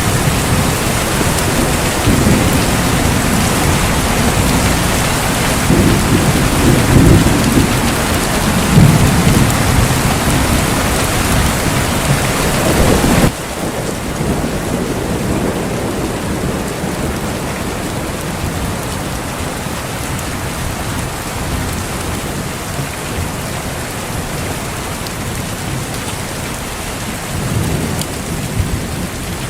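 Heavy rain falling steadily, with low thunder rumbling several times in the first half. About 13 seconds in it cuts suddenly to softer rain, with one more low rumble of thunder near the end.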